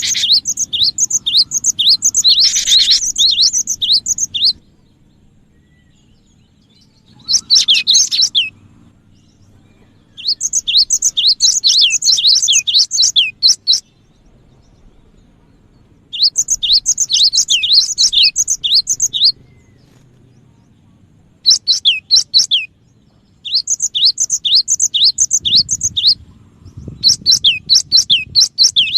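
Cinereous tit (gelatik batu) singing loudly in rapid runs of sharp, high, repeated notes. The bouts last one to four seconds, with short pauses between them. This is a lure recording of vigorous song, played to draw in other tits.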